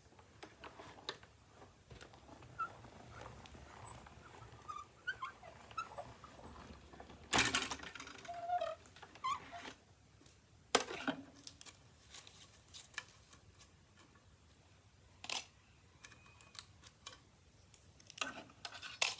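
Paper die cuts and thin metal cutting dies being handled on a craft table: scattered light clicks and short paper rustles, with a louder rustle about seven seconds in.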